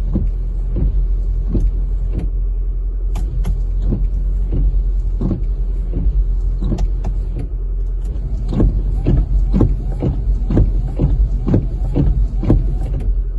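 Honda Civic sedan windshield wipers running with a repeated knock on each stroke, a sign of play at the wiper shaft. The knocks come about once every second at first, then about twice a second in the second half, over the steady hum of the running car.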